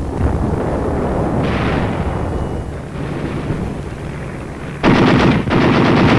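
Battlefield gunfire on an old film soundtrack: a continuous rumble of firing, then about five seconds in a sudden, louder stretch of rapid, evenly spaced shots like machine-gun fire.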